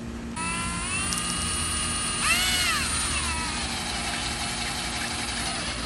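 Electric drill running, its motor whine starting about half a second in, rising and dipping in pitch about two seconds in, then running steady until it stops near the end.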